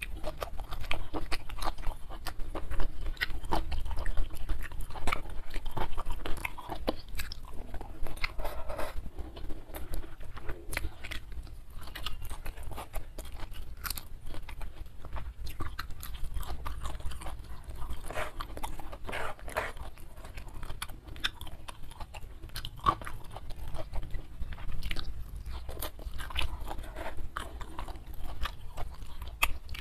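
Close-miked chewing of food with many sharp, irregular crunches and bites.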